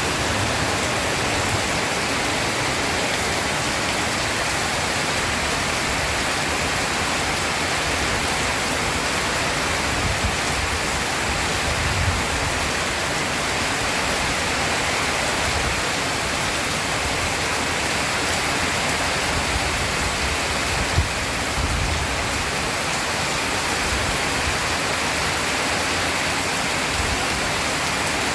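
Heavy rain falling steadily, an even hiss, with a few brief low thumps, the clearest about 21 seconds in.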